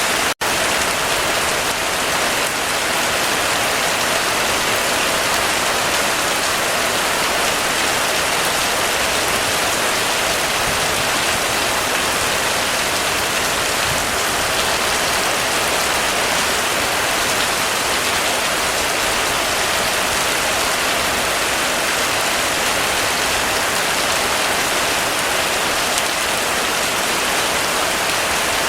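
Heavy rain falling steadily: an even, dense hiss of drops on a surface. It cuts out for an instant just after the start.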